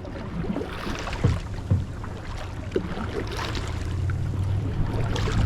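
Kayak paddling on open water with wind on the microphone, a few light paddle knocks and splashes. A low steady hum comes in about four seconds in.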